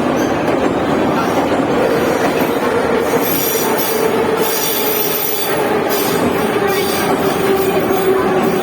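Tashkent Metro train running on the rails: a loud, steady rumble of wheels and car noise, with a humming tone that comes in about two seconds in and slowly sinks in pitch.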